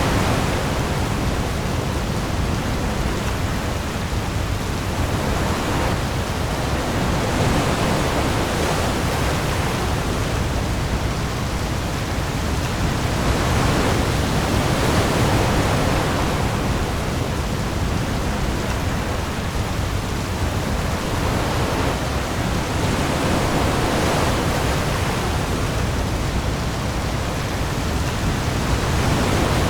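Heavy rain falling on the open sea together with waves: a dense, steady hiss with a deep low rumble, swelling and easing every several seconds as waves rise and break.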